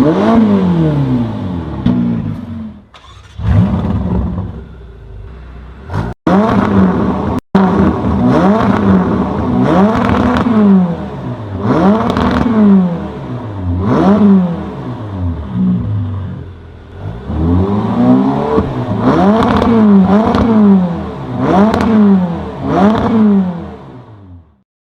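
Ferrari California T's twin-turbo V8 through a Tubi Style aftermarket exhaust, revved again and again, each rev rising and falling in pitch, with a couple of abrupt breaks between takes.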